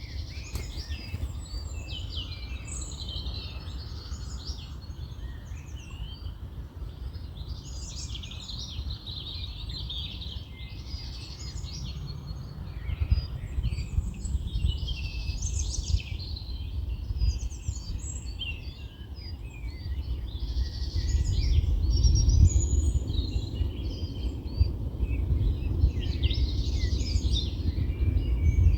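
Several small birds singing and chirping together, a dense chorus of overlapping high calls. Underneath is a low rumble of wind, which grows stronger past the middle.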